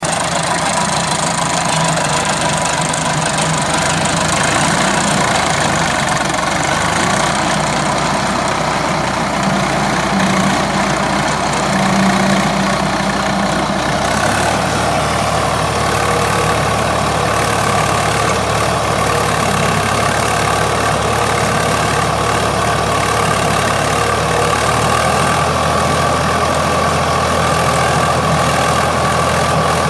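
Diesel tractor engine running steadily, with a change in its note about halfway through.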